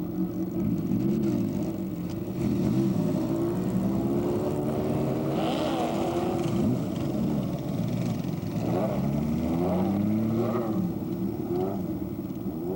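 Motorcycle engines revving and accelerating, their pitch rising and falling again and again, with more than one engine heard at once.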